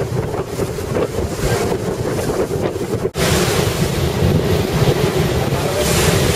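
Wind buffeting the microphone on the open deck of a moving Staten Island ferry, over a steady low drone. There is a brief break about three seconds in, after which the wind rush is louder.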